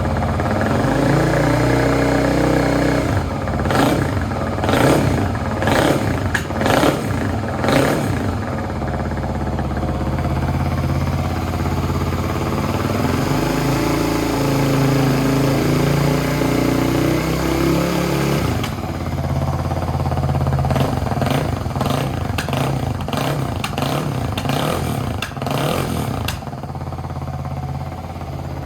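Kawasaki D-Tracker X's 250 cc single-cylinder four-stroke engine idling through a DELTA slip-on muffler, with its throttle blipped about five times early on and then in a quick series of revs a little past the middle, before it settles back to a steady idle near the end.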